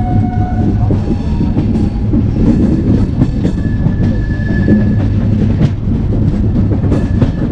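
Indian Railways passenger train running along the track, heard from an open coach door: a steady, loud rumble of wheels on rails mixed with wind, and a few faint thin tones and rattles over it.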